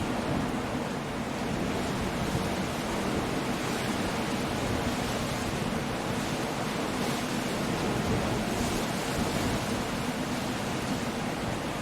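Stormy sea surf and wind making a steady, even rush of noise, with no single wave crash standing out.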